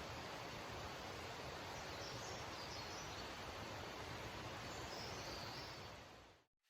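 Steady outdoor bush ambience, an even hiss with a few faint high chirps, fading out near the end.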